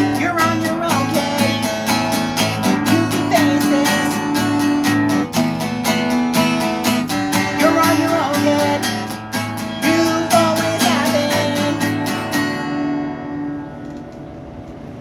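Acoustic guitar strummed steadily while a voice sings over it. Near the end the song stops and only a faint hiss remains.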